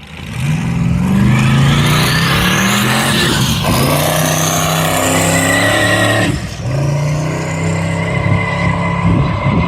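Twin-turbo Camaro's engine at full throttle on a drag strip pass, revving up hard and dropping in pitch at a gear shift about three and a half seconds in, then climbing again with another shift at about six seconds. A high whine rises along with the revs.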